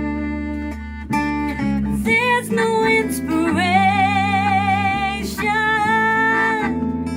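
Live band music: an acoustic guitar strummed under a melody line, with long held, wavering melody notes through the middle.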